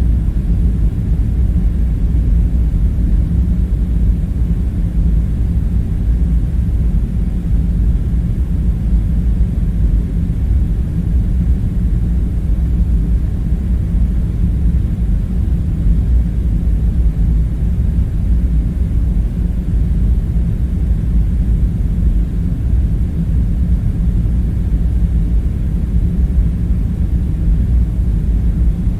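Steady low rumble with a faint hum in it, unchanging throughout: the background drone of an ambience track.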